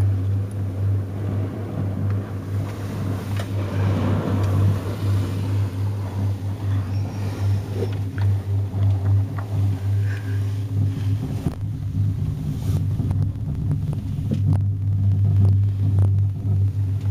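Steady low hum and rumble inside a moving aerial tram cabin, with a few faint knocks.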